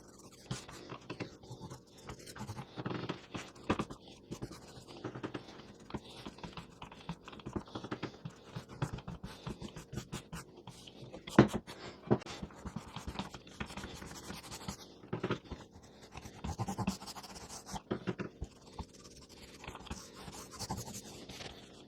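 Irregular scratching, rustling and light knocks of hands and tools working on wooden bellows boards, with one sharper knock about eleven seconds in.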